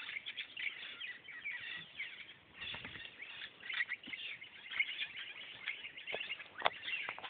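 Birds chirping and calling continuously, many short overlapping chirps, with a few short knocks or thumps, the clearest near the end.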